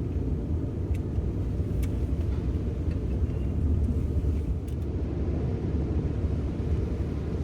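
Steady low rumble heard from inside a car's cabin as it goes through an automatic car wash, with a few faint clicks.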